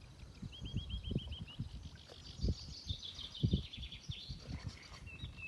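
A small bird calling: a quick run of short, repeated chirps, then a faster high trill. Low, irregular thumps sound underneath.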